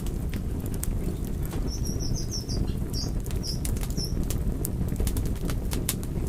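Wood fire burning, with a steady low rumble and many sharp crackles and pops. From about a second and a half in to about four seconds, a string of short high-pitched chirps sounds over it.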